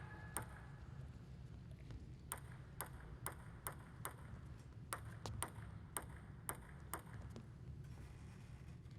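Plastic table tennis ball clicking against hard surfaces: about a dozen light, sharp clicks, mostly from about two seconds in at roughly two a second, over a low steady hum.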